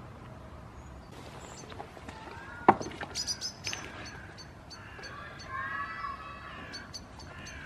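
Small birds chirping in runs of short, high calls. A single sharp knock comes near the middle, and a faint drawn-out call follows in the second half.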